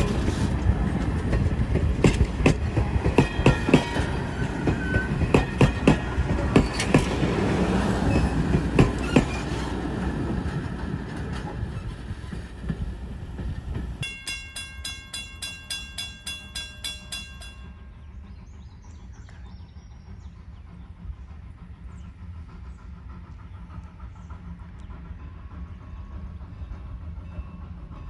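Strasburg Railroad train hauled by former Norfolk and Western 4-8-0 steam locomotive 475 rolling past, its wheels clicking over the rail joints, fading as it moves away. About halfway through the sound changes abruptly to a ringing that repeats three to four times a second for a few seconds, then a low rumble from the train.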